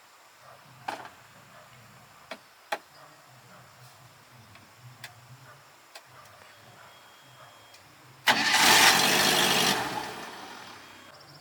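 A few light clicks and taps, then about eight seconds in a 5-ton Toyota truck's engine cranks and fires with a sudden loud burst that fades away over a couple of seconds.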